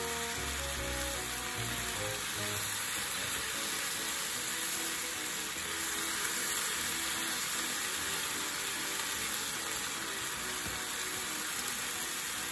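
Sliced pork and onion sizzling steadily in a frying pan, with light background music playing over it.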